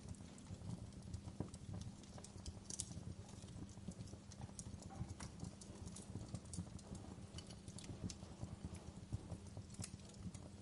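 Wood fire burning in a fireplace, crackling: irregular sharp pops and snaps over a low, steady rumble of the flames.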